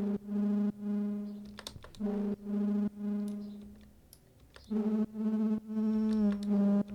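Synthesized foghorn-style drum and bass bass patch, one note played about six times, some held, some dying away. Its upper overtones grow brighter and duller from note to note as the synth's filter controls are adjusted.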